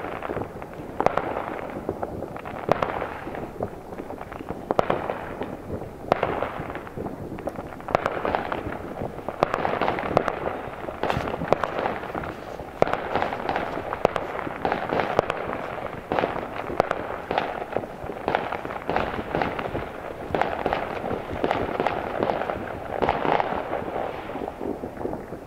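Many fireworks going off at once: a continuous din of overlapping bangs and crackling, with louder single bangs standing out now and then.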